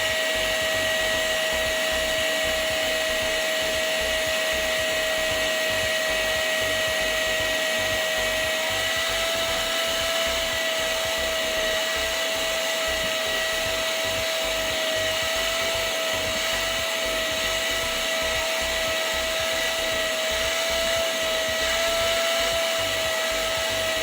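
Hoover vacuum cleaner's motor running steadily, with a high-pitched whine over a rushing hiss.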